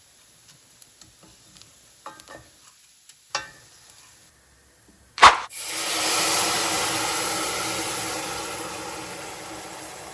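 Carnaroli rice toasting in a hot pan with light scattered ticks of stirring. About five seconds in, white wine is poured in and hits the hot pan with a sudden loud hiss that slowly dies down as the wine bubbles off.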